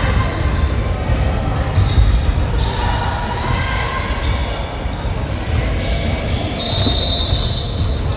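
Basketball dribbled and bouncing on a hardwood gym floor during play, with spectators' voices echoing in the hall. A short high squeak comes about seven seconds in.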